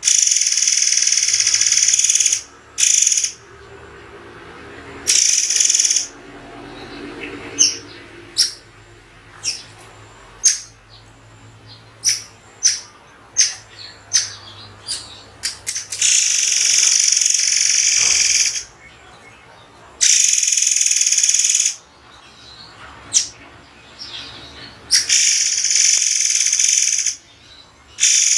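Murai air bird calling: long, shrill, hissing calls of one to three seconds, alternating with a run of short, sharp single notes spaced by pauses.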